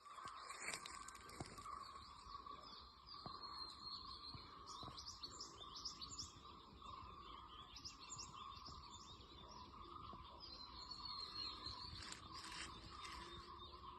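Faint birds chirping and calling in overlapping short notes, over a steady high-pitched hum.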